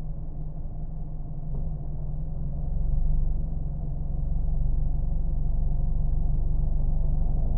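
Car engine running steadily, a low hum that grows slightly louder about three seconds in.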